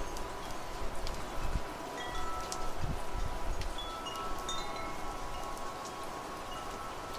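Wind chimes ringing, several clear tones striking and overlapping from about two seconds in, over a steady hiss of rain and wind, with a few low gusts of wind.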